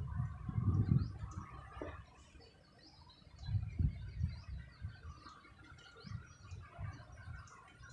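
Faint bird chirps in short scattered calls, under irregular low gusts of wind on the microphone that are loudest near the start and again about halfway through.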